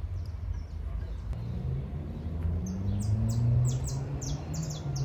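A bird calling in a quick series of short, high, downward-sweeping chirps, about four a second, starting about halfway through, over a steady low rumble.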